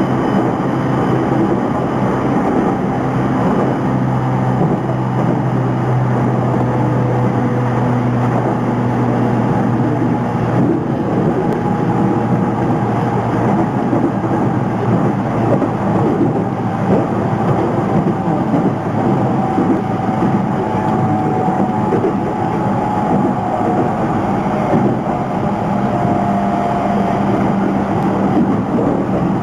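Takasaki Line commuter train heard from inside the car while running between stations: a steady rumble of wheels on the rails, with a faint motor whine whose tones shift in pitch partway through.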